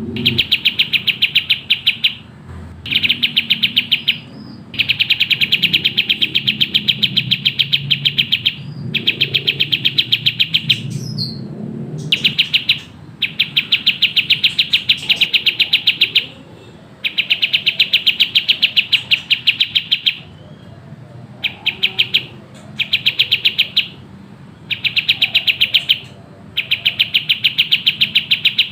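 Kapas tembak songbird singing its fast, tightly packed song: runs of rapid, sharp chirps lasting a second or three each, repeated over and over with short pauses between.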